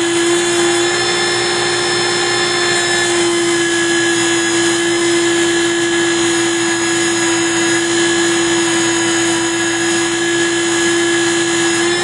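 Small electric power tool running at a steady speed with a constant whine, spinning a small wooden keg blank while it is sanded smooth.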